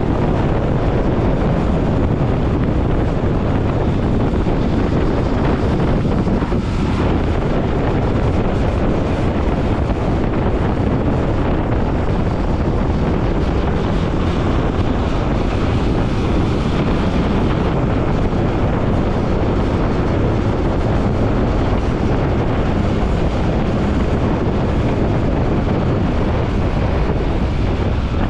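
Steady wind rush buffeting the microphone of a moving motorcycle, heavy in the low end, with the bike and traffic running underneath.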